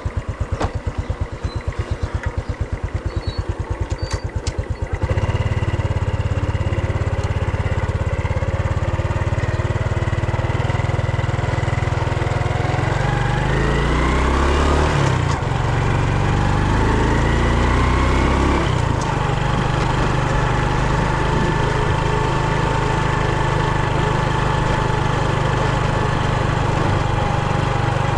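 Brush cutter engine, a machine with carburettor trouble, running. For about five seconds it pulses in a slow, uneven idle. It then picks up and steadies, revs up and down in the middle, and settles into a steady, higher-speed run.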